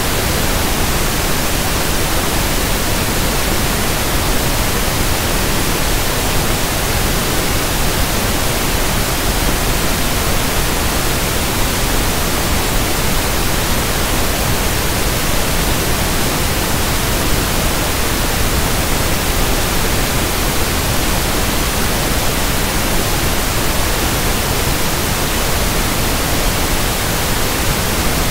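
Steady synthetic pink noise (1/f noise): a constant, even hiss with no change in level or character.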